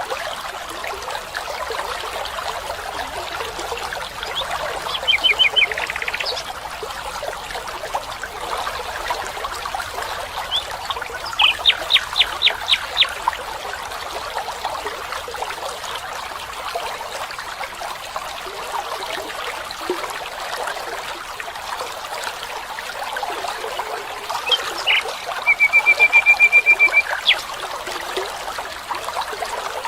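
Steady trickling and babbling of a stream, with a bird calling over it three times: a brief group of high notes about five seconds in, a quick series of about seven notes midway, and a fast, even trill of about a second and a half near the end.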